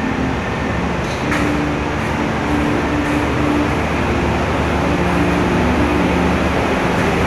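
Bandung Raya local passenger train rolling slowly along the platform track: a steady rumble with a low hum, and a short knock about a second in.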